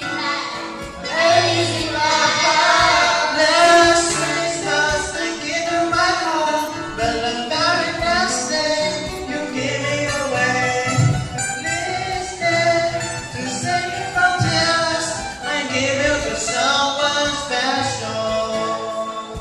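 Several voices singing a song together live, over guitar accompaniment with steady low bass notes.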